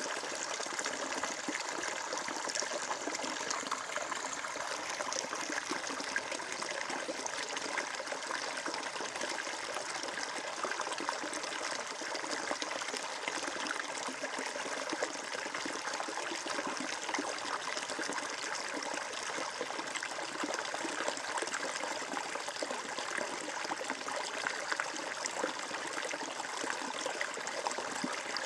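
Flowing water running and trickling steadily, an even rush with fine splashing detail.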